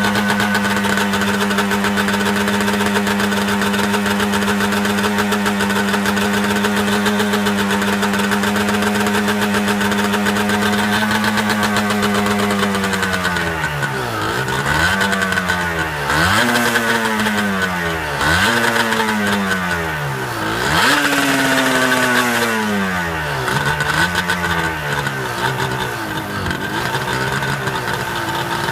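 Yamaha R1-Z's two-stroke parallel-twin engine running at an even, raised speed, then blipped on the throttle about every two seconds from roughly halfway through, the revs jumping up and sagging back each time, with smaller blips near the end.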